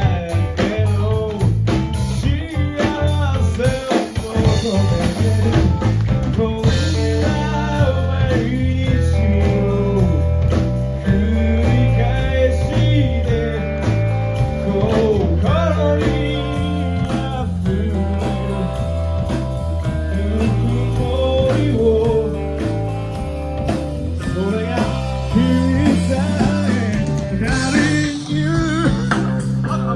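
Rock band playing live: a singer over guitar and drums, with a steady low rhythm.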